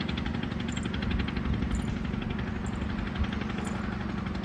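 Motorboat engine running steadily, a constant low hum with a fast, even pulse.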